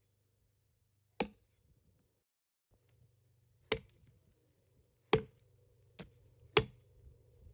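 Wood being chopped: five sharp blows at uneven intervals, about one to two and a half seconds apart.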